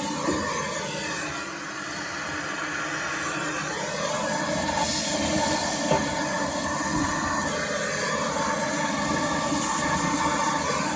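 Miele C3 vacuum cleaner running steadily with its dusting brush, sucking fluff out of the inside of a tumble dryer; the airflow note shifts slightly as the brush moves.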